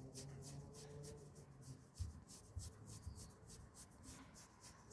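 A hand stroking a cat's fur, a soft, fast, even rubbing, with a faint low purr in the first part.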